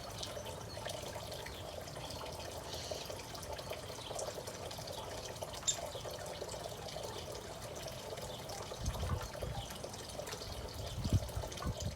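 Garden pond water trickling and splashing steadily, with scattered small drips. There are a couple of low bumps about nine and eleven seconds in.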